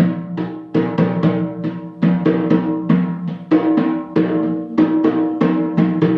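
Percussion music: a drum with a clear pitch struck in a steady rhythm, about three strokes a second, each ringing briefly before the next.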